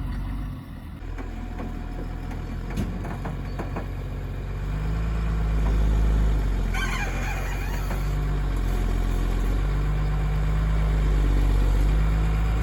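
Backhoe loader's diesel engine running, revving up twice so that its pitch and loudness rise and fall back. A brief high squeal comes about seven seconds in.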